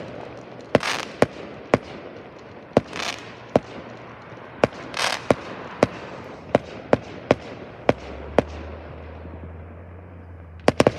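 Aerial fireworks going off in a finale: a run of sharp bangs at irregular spacing, roughly one or two a second, several followed by a brief hissing crackle, with a quick cluster of three bangs near the end.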